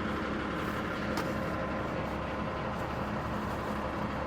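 Loader's diesel engine running steadily, with an even, unchanging drone.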